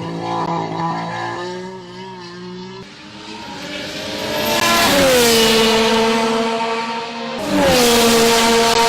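Red Bull RB14 Formula 1 car's 1.6-litre turbocharged V6 hybrid engine at speed. Its note climbs and grows loud about five seconds in, then drops in pitch as the car goes by. A second loud pass starts suddenly near the end, again falling in pitch.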